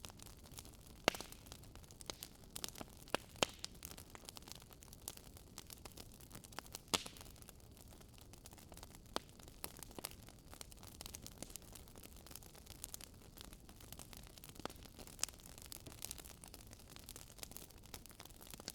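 Wood fire in a fireplace crackling: sharp, irregular pops and snaps of burning logs over a faint steady hiss, with a few louder pops about a second in, around three seconds in and about seven seconds in.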